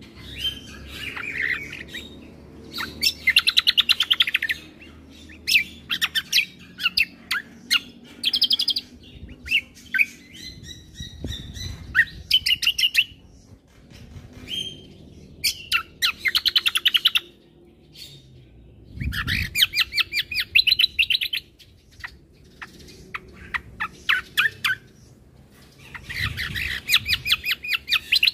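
Cucak kombo (kecial kombo) songbird singing: repeated bouts of fast, rattling chattering trills and varied notes, each lasting one to two seconds with short pauses between. Its 'isian' repertoire is played as a masteran recording, used to train or stir up caged birds.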